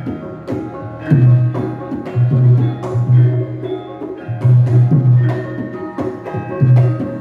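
Javanese gamelan ensemble playing a gending: ringing metallophone notes over repeated deep drum strokes.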